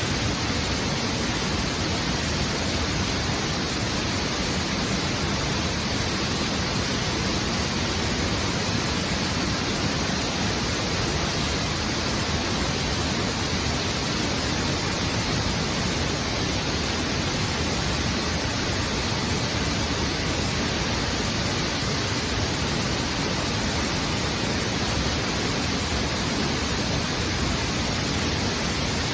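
A waterfall: a steady, loud rush of falling water, even and unbroken.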